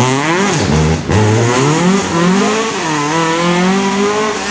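Rally car engine revving hard on a stage: the revs swing up and down, cut briefly about a second in at a gear change, then hold high and climb slowly.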